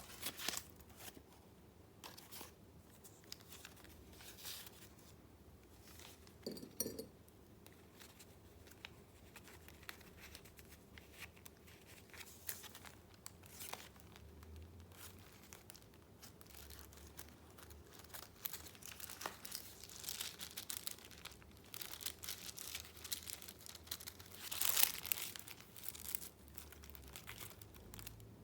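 Paper rustling and crinkling as the pages and paper inserts of a handmade junk journal are handled and turned, in short intermittent bursts, the loudest a bit before the end.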